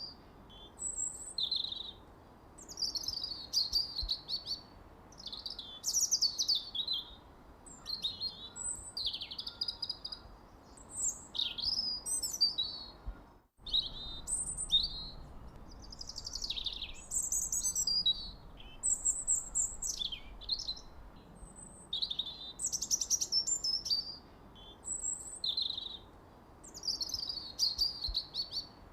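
Songbirds chirping and singing, several phrases of quick high notes and falling sweeps one after another. About halfway through, the sound drops out suddenly for a moment before the chirping resumes.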